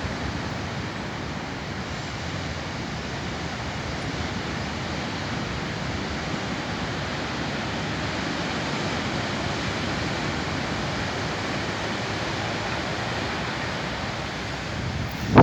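Steady roar of ocean surf, an even rushing noise with no breaks.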